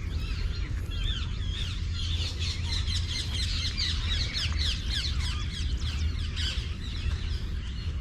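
Many birds calling at once in a dense chorus of short chirps and squawks, thickest in the middle of the stretch, with a steady low rumble underneath.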